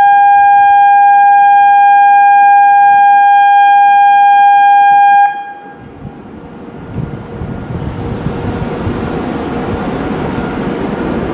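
Shinkansen train horn sounding one long, steady, very loud note for about five seconds. The rush of a bullet train running through the station at speed then builds, with a strong hiss from about eight seconds in.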